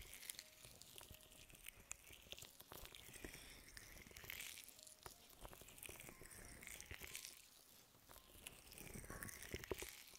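Faint close-miked ASMR scratching and brushing on the microphone: soft hissy strokes that swell and fade every second or two, with small crackling clicks.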